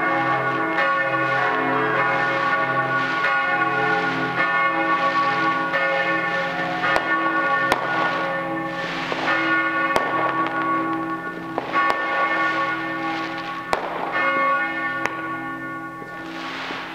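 Several church bells pealing together, with overlapping repeated strokes, as they ring in the New Year. Now and then a sharp firework bang cracks over the bells.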